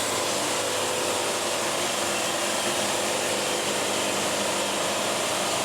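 Band sawmill running steadily with its dust collector blower, a constant even rushing hum, between cuts with the blade not yet in the log.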